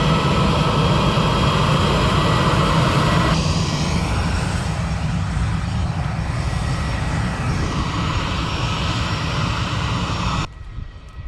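Aircraft engines running loud and steady at close range, a dense rumble with a thin high whine over it. The upper part of the sound eases a little just over three seconds in, and the sound cuts off abruptly near the end.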